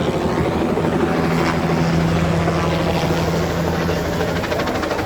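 Helicopter running steadily, a continuous engine and rotor sound with a fast, even pulsing coming through over the last couple of seconds.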